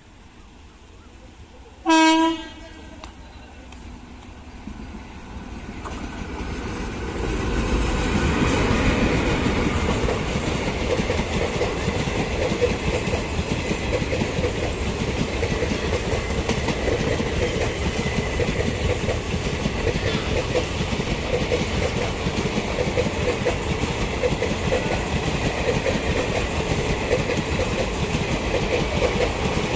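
A single short blast of a WAP-4 electric locomotive's horn about two seconds in. Then a superfast express train approaches and passes at speed: a rising rush that settles into a loud, steady run of wheels on rail, with the clickety-clack of the coaches going by.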